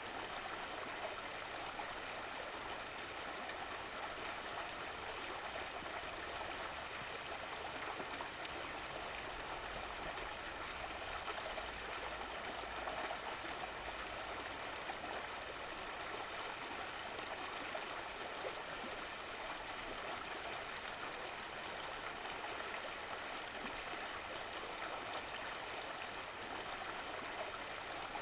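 Running water of a stream flowing steadily, an even rushing and trickling.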